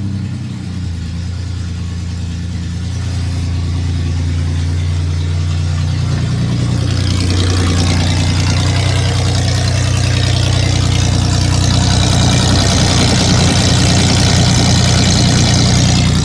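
A 2001 Ford Ranger's 3.0 L V6 idling steadily through freshly welded unequal-length headers and a fully straight-piped exhaust with no muffler, resonator or catalytic converters, just after its first start. The idle grows gradually louder.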